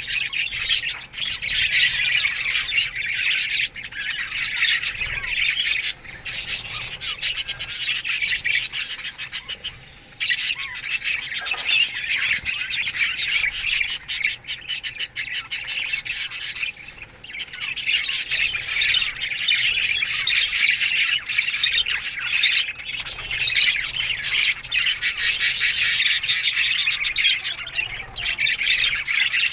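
A colony of budgies (budgerigars) chirping and squawking together in a constant dense chatter, dipping briefly a couple of times.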